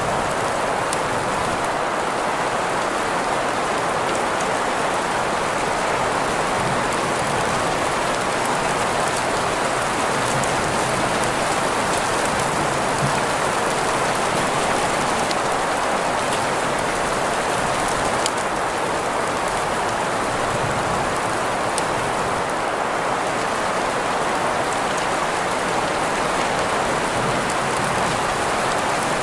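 Steady rain mixed with green noise: an even, unbroken hiss, with faint drop ticks scattered through it.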